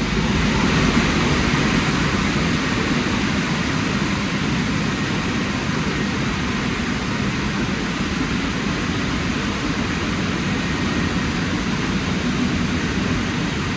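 Drying blowers of a WashTec SoftCare Pro rollover car wash running at full power: a steady, loud rush of air over a low fan hum, the final drying stage of the wash programme.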